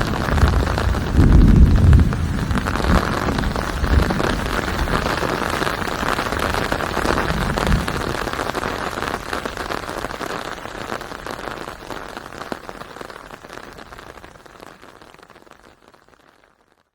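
Steady rain falling, a dense hiss with low rumbles in the first half. The strongest rumble comes between one and two seconds in. From about halfway through the rain fades gradually away to silence by the end.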